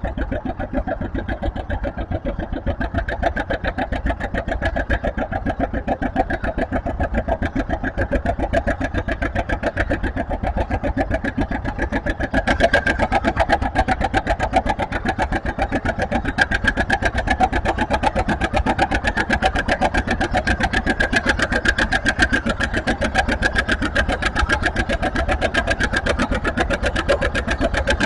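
Tractor engine running hard with a fast, even beat of exhaust pulses, as in a tractor pull; it gets louder about twelve seconds in and holds there.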